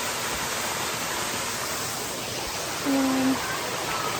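Creek water rushing over rocks, a steady hiss. About three seconds in, a voice calls out briefly.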